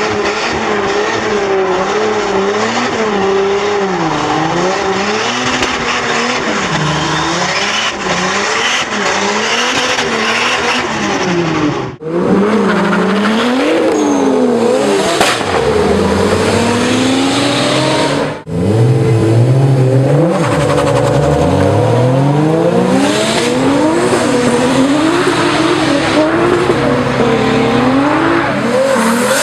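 Car engines revving up and down repeatedly through their exhausts, with tyre squeal from cars driven sideways in drifts. The sound breaks off abruptly twice, about 12 and 18 seconds in, and picks straight up again each time.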